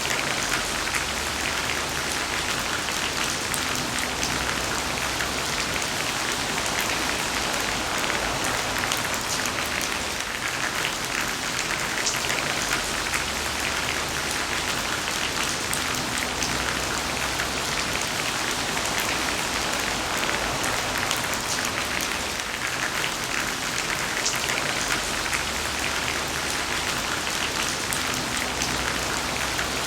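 Heavy rain falling steadily: a dense, even hiss with many sharp little drop splashes.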